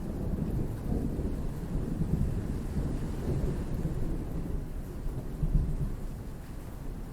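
Rolling thunder rumbling low over steady rain, swelling to its loudest about five seconds in and then easing off.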